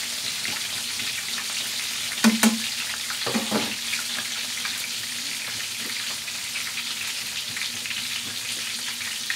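Chicken drumsticks deep-frying in hot oil in a pan, a steady crackling sizzle. A couple of sharp knocks sound about two seconds in.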